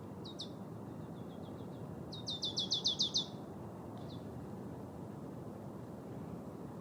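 Marsh tit singing: a couple of sharp high notes, then a fast run of about nine notes in a little over a second, and one more note after. A steady low background hum runs under it.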